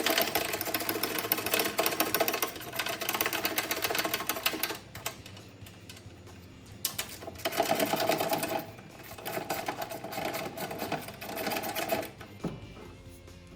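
A ratchet clicking rapidly as it spins out the bolts holding a motorcycle's slip-on exhaust bracket, in three runs with short pauses between.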